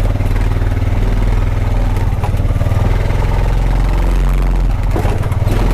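Honda Pioneer 520 side-by-side's engine running steadily at low speed as it crawls over the rocky, washed-out track, with a little clatter from the machine.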